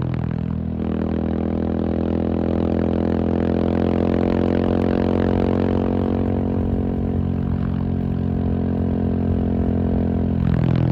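KTM 690 SMC R's single-cylinder engine running under way at a fairly steady pitch, with a shift in the note about a second in and another near the end.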